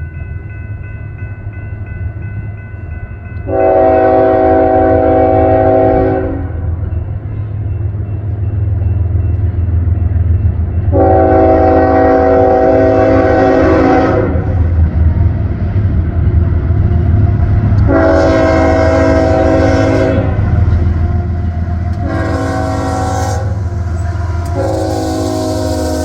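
Freight locomotive horn (GE ES44AC with a Nathan K5HL five-chime horn) sounding the grade-crossing signal: long, long, short, long, with the last blast still going at the end. Under it runs the steady rumble of the locomotives' diesel engines, and a crossing bell rings until the first blast.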